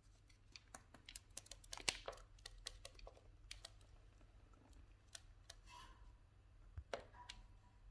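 Cockatiels pecking at an almond: quick, irregular, faint clicks and taps of beaks on the hard nut, coming in flurries.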